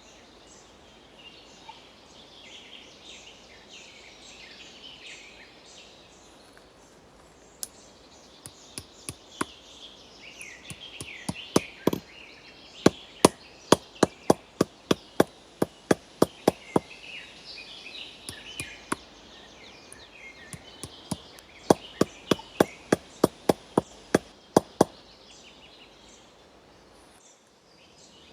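Hammer driving a nail into a wooden branch: a long run of quick, sharp strikes, two to three a second, then a short pause and a second run of strikes.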